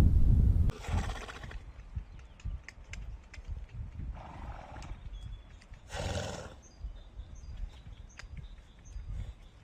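A deep animal roar cuts off within the first second. Then a horse blows three times, with scattered hoof clops in between.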